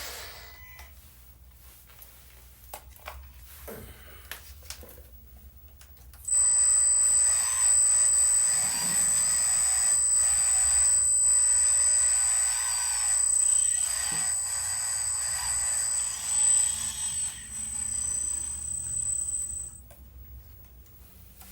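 Small electric hydraulic pump of an RC construction model running with a steady high whine. It starts suddenly about six seconds in, runs for about thirteen seconds with slight dips as the load changes, and cuts off near the end. Faint clicks and small knocks come before it.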